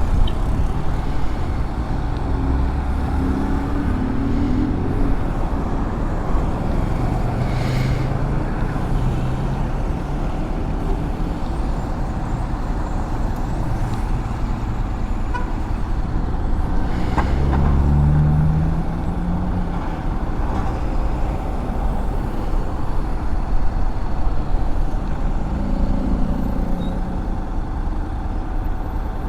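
Honda X-ADV 750's parallel-twin engine running under way, with steady wind and road noise; the engine note climbs several times as the bike accelerates, most strongly about two-thirds of the way through.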